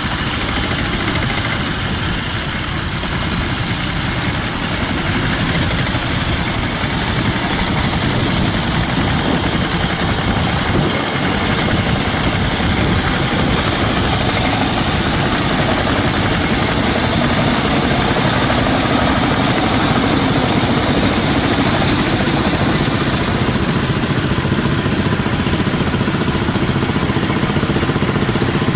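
Tractor engine running steadily, getting a little louder after the first few seconds.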